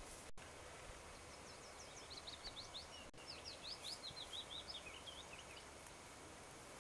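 Faint outdoor background with a small bird singing a quick run of short, high chirps, starting about a second and a half in and lasting about four seconds.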